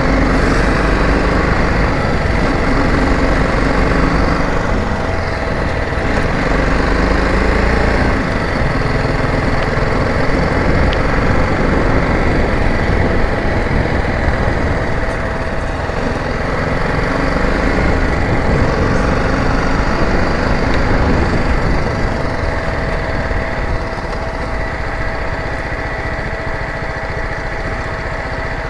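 Motorcycle engine running steadily while riding on a paved road, with a deep continuous rumble.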